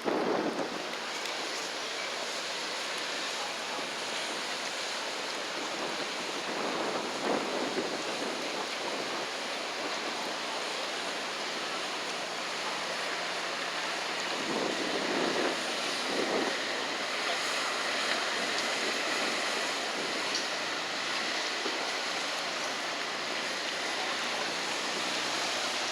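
Steady rushing noise of wind on the microphone and river water along the riverside, with a few brief louder moments.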